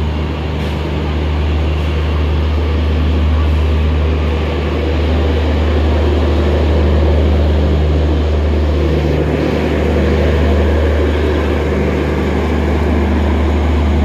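Garib Rath express train rolling slowly past, with a loud, steady low mechanical drone from the train's engines.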